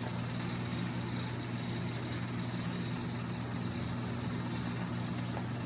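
Steady low machine hum with a faint high whine above it, even throughout.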